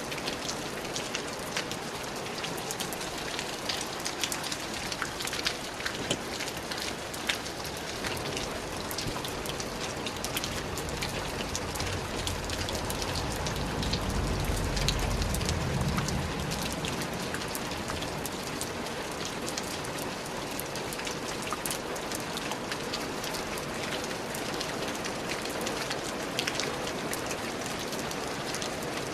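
Steady rain falling, with many separate drops ticking on a surface. A low rumble swells and fades away around the middle.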